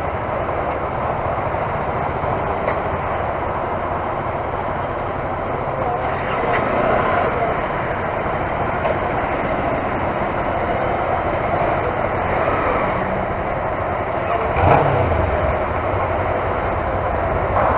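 Motorcycle running on the road, its engine mixed with a steady rush of wind noise, with one brief low thump about three-quarters of the way through.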